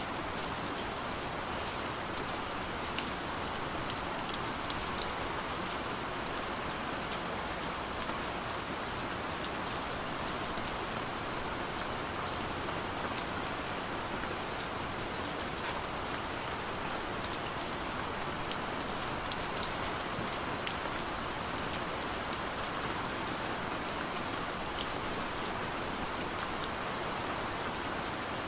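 Steady gentle rain falling, an even hiss with scattered sharp ticks of single drops hitting a surface.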